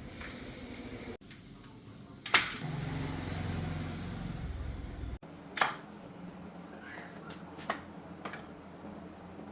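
A few sharp knocks, the loudest about two seconds in and again past the middle, with smaller ones near the end, over a low steady hum in the middle stretch; the background changes abruptly twice.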